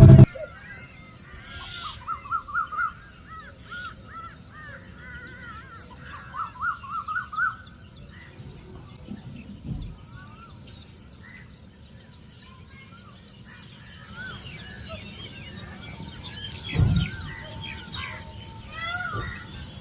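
Several birds chirping and calling at once, with quick repeated runs of short arched notes and a constant scatter of higher twitters. A dull low thump near the end.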